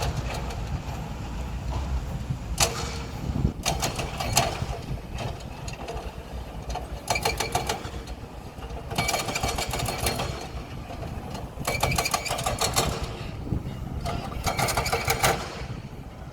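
A heavy machine's engine running steadily, with about six bursts of rapid metallic clattering spaced a second or two apart.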